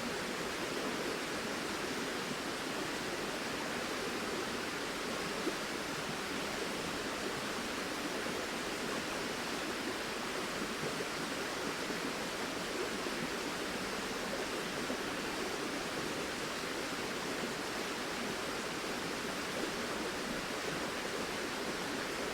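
A flowing river rushing steadily, an even hiss of moving water with no breaks.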